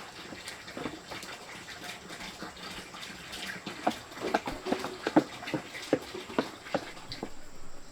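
Water splashing, with scattered light knocks and clatter that come more often in the second half.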